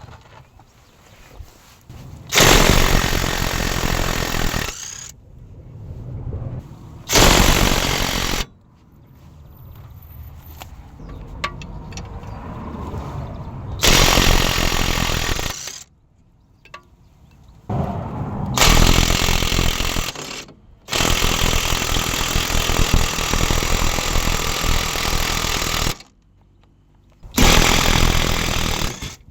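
Impact wrench hammering in about six separate bursts, the longest about five seconds, with short pauses between them.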